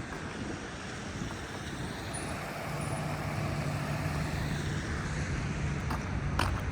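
Road traffic on a wet city street: a steady wash of tyre noise, with a vehicle's low engine hum rising in from about two and a half seconds in and passing.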